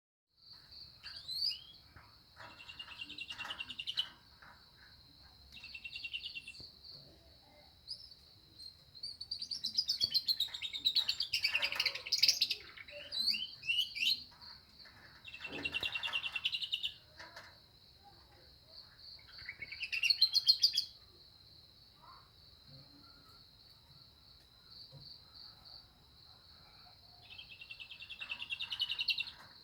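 Domestic canary singing in bouts of rapid chirps and trills, its song filled in with lovebird-style phrases. The longest and loudest bout comes about ten to fourteen seconds in. A steady, high, finely pulsed trill runs underneath throughout.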